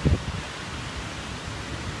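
Steady hiss of falling rain, with a few low thumps right at the start.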